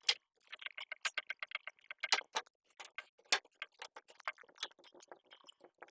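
A pipe cutter working through a copper water line: an uneven run of light clicks, several a second, with a few sharper ones.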